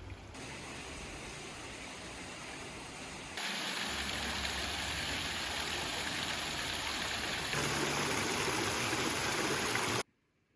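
Rushing water of a mountain stream or waterfall, a steady hiss across the range, heard in several shots cut together that get louder in steps, cutting off suddenly near the end.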